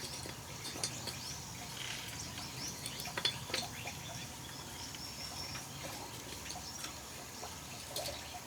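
Scattered small clicks and taps, the loudest about three seconds in, over short high bird chirps and a steady faint background hum.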